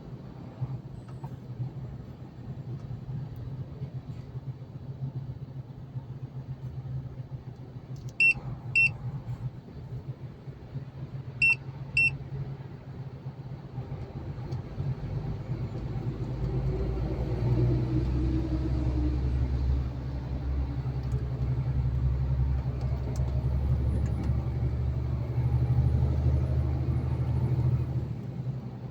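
Truck cab interior: steady low engine and road rumble that swells louder and deeper about halfway through. Two pairs of short electronic beeps sound about a third of the way in.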